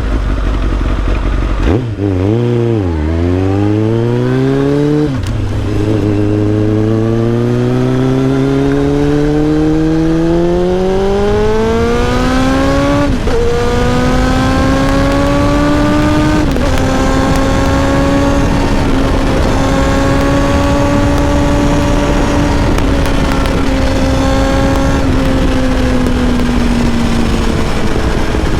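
Kawasaki ZX-7R's inline-four engine pulling away from a standstill: the revs climb through the gears with a sudden drop at each of several gear changes, the longest pull running to about halfway, then the engine settles to a steadier pitch and eases off slightly near the end.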